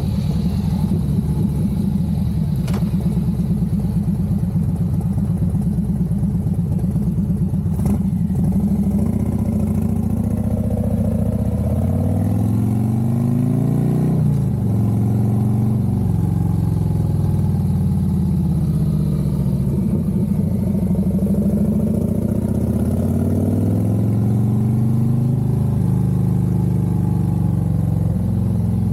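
Harley-Davidson Road Glide's V-twin engine running under way. Its steady pitch gives way, from about ten seconds in, to repeated rises and drops as it accelerates and shifts gears. Two short clicks are heard in the first eight seconds.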